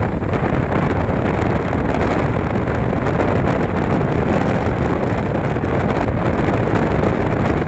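Strong onshore wind buffeting the microphone: a loud, steady rushing noise with no pauses.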